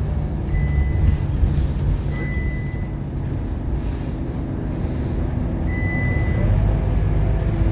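Scania K230UB bus's five-cylinder diesel engine running under way, a steady low drone that eases off a little mid-way and builds again near the end. Three short high electronic beeps sound over it.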